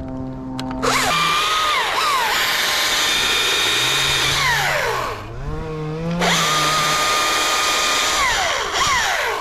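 Two-stroke chainsaw revved to full throttle and cutting wood, its pitch sagging under load and recovering several times; it drops to idle about five seconds in, then revs up again.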